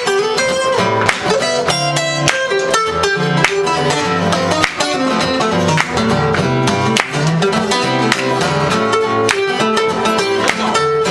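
Acoustic guitar music with fast strumming, many quick strokes a second over changing chords.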